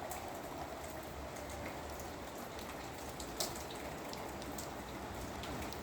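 Steady rain falling, an even hiss with scattered drops ticking on a surface, and one louder tick about three and a half seconds in.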